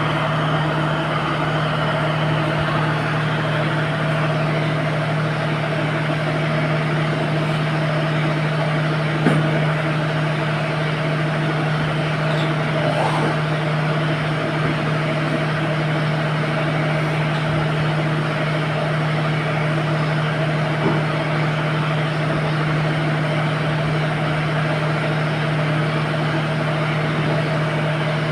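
A running engine droning steadily with a strong low hum, and a faint knock about nine seconds in.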